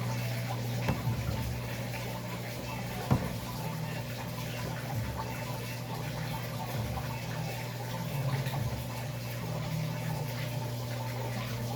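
Electrolux LAC13 13 kg top-loading washing machine running mid-cycle, with water moving in the drum over a steady low hum, and one sharp knock about three seconds in.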